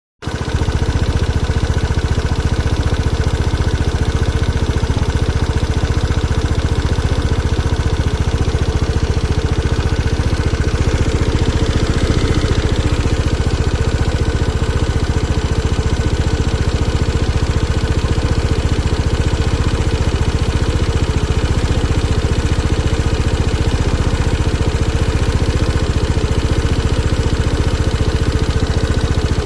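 SYM DRG scooter's single-cylinder engine idling steadily with an abnormal noise (異音). A crankshaft replacement did not cure the noise, and the owner does not know which part is at fault.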